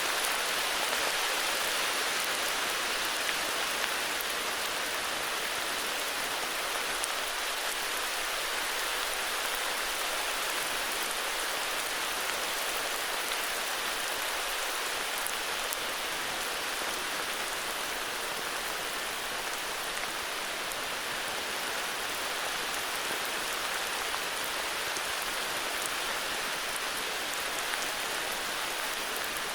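Heavy rain falling steadily, an even hiss with scattered drop ticks and no change throughout.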